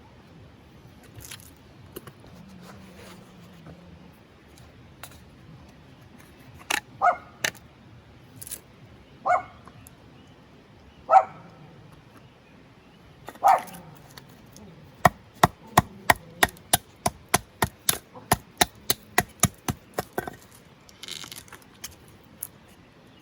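Wood being worked with a blade while carving a kuksa: a few scattered knocks and several louder single hits, then a quick even run of about twenty sharp taps, roughly four a second, that stops suddenly.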